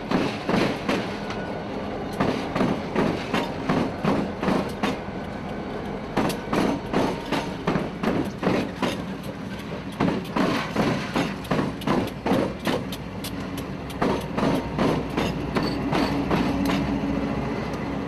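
Freight train rolling past, its wheels striking rail joints in a steady, rhythmic clickety-clack over a continuous rumble.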